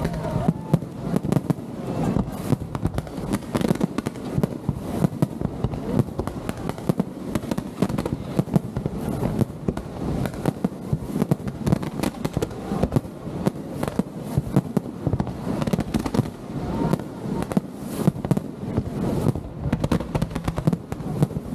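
Aerial fireworks going off, with a dense, unbroken barrage of bangs and crackles.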